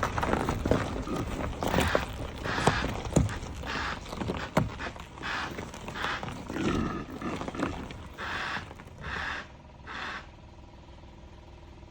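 Impala calling with a run of harsh, breathy grunts, repeated about every half second to second, that stops about ten seconds in. Sharp clicks and knocks come in among the calls, and a faint steady hum is left at the end.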